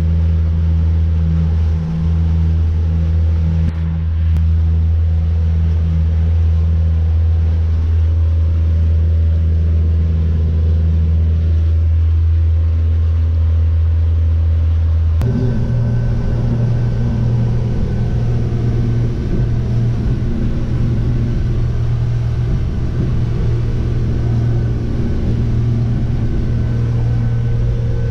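Jeanneau Merry Fisher motorboat's engine running under way with a steady low drone. About halfway through it shifts suddenly to a higher pitch.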